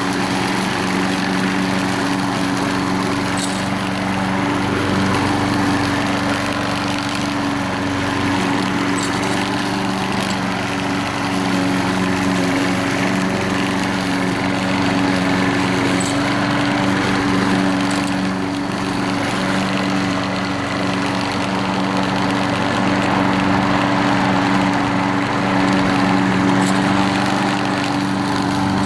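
Troy-Bilt front-wheel-drive walk-behind mower's small engine running at a steady speed, freshly cold-started.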